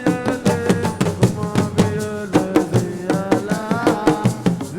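Live assiko band music: hand drums beating a fast, dense rhythm under sustained melodic lines.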